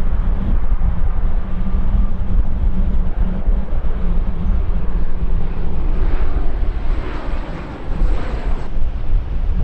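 Airliner engines heard over heavy wind buffeting on the microphone. The engine noise swells in the second half and cuts off abruptly near the end.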